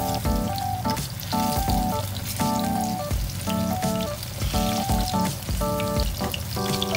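Halved bananas sizzling and bubbling as they fry in hot oil in a frying pan, over background music with a steady rhythm.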